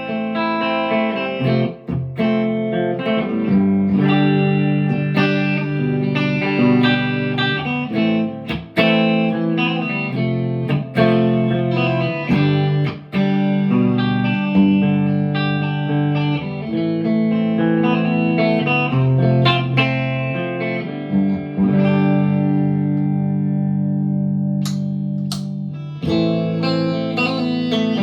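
PRS McCarty 594 Hollowbody II electric guitar played through a Marshall DSL40C amp: picked and strummed chords and single notes. Near the end a chord is left to ring and fade before the playing starts again.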